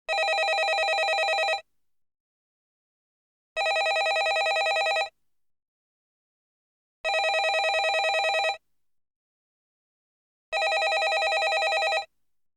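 Landline telephone ringing: four rings with a rapid trill, each about a second and a half long, separated by pauses of about two seconds.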